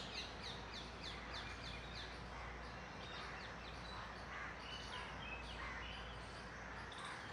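A bird calling in a rapid series of short, high, downward-sliding notes, about three a second for the first two seconds, then fainter scattered calls, over a low steady hum.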